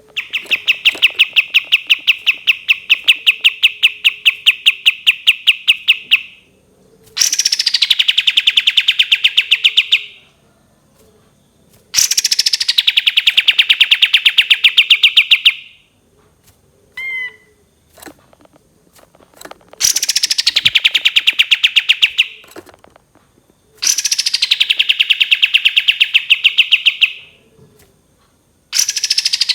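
Kapas tembak songbird singing long, rapid rattling trills of about three to six seconds each, separated by short pauses; most of the trills open with a quick high downward sweep. A short whistled note comes near the middle.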